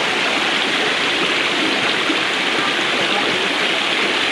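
Stream water rushing steadily, a loud, even hiss of flowing water.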